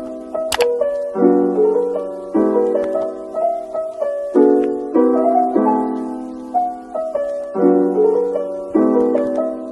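Kalimba music: a slow melody of plucked notes over chords, each note ringing and fading before the next.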